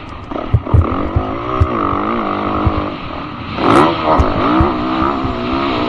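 Dirt bike engine revving up and down several times as it is ridden, with short low thumps on the microphone near the start.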